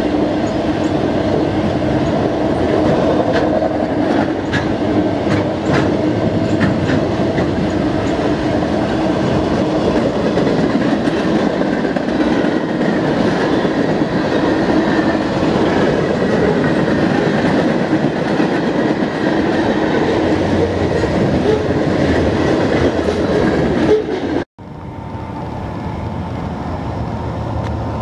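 Freight train cars rolling past on the rails: a steady rumble and rattle of wheels with some clicks over the rail joints. About 24 seconds in it cuts off abruptly, and a quieter low rumble of an approaching diesel locomotive takes over and grows.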